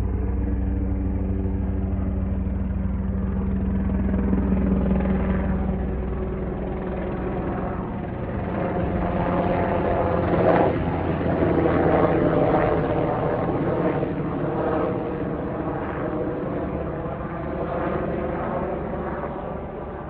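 Sikorsky UH-60 Black Hawk helicopter flying by: the rotor beat and twin turboshaft turbines run steadily, swelling to their loudest around the middle and then easing off.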